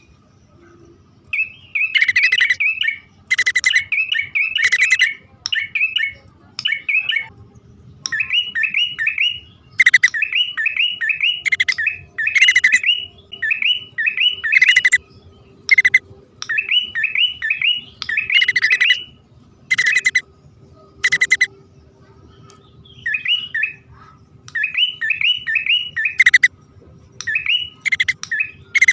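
Prenjak (prinia) calls used as a trapping lure: phrases of rapid, repeated sharp chirps, each lasting about a second, separated by short pauses.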